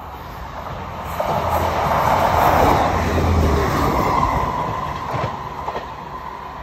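Class 158 diesel multiple unit passing close along the platform: engine rumble and the noise of wheels on rail build over about two seconds, peak, then fade as it runs away.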